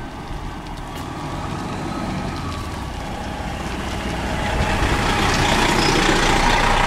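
A motor vehicle approaching, its engine and road noise getting steadily louder.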